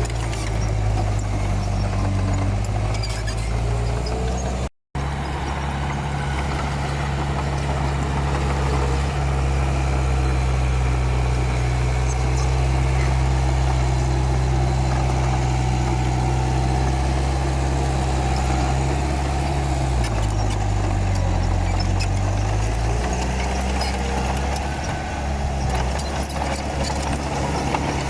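Komatsu D31P bulldozer's diesel engine running steadily under work. About twenty seconds in the engine note drops, then climbs back a few seconds later. A very brief break in the sound comes near five seconds in.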